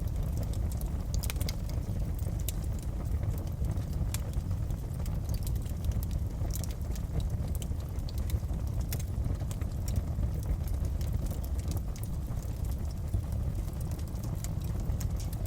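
Wood fire in a fireplace crackling: a steady low rumble with irregular sharp pops and snaps scattered throughout.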